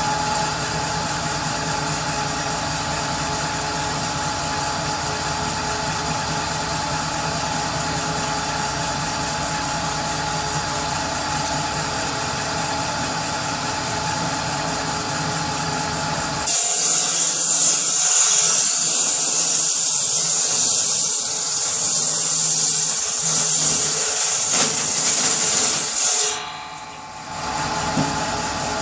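A power saw runs steadily. About 16 seconds in it cuts into wood with a loud hiss for roughly ten seconds, which stops abruptly. After a short dip it settles back to running.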